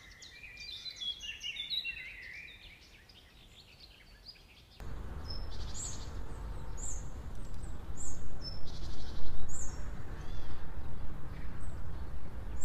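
Birds chirping and singing. About five seconds in, the background cuts to a louder steady noise, with short high chirps repeating roughly once a second.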